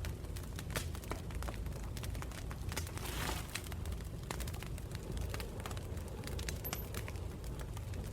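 Wood campfire burning, with frequent sharp crackles and pops over a low steady rumble, and a brief hiss about three seconds in.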